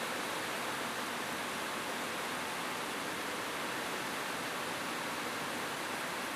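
Steady heavy rain on a roof: a dense, even hiss with no single drops standing out and no thunder.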